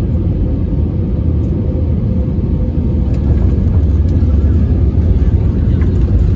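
Steady low rumble of an Airbus A320neo heard from inside the cabin during its landing, growing slightly louder about three seconds in.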